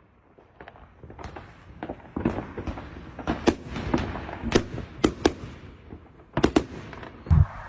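A string of sharp cracks or pops at irregular intervals, about a dozen, over a steady hiss.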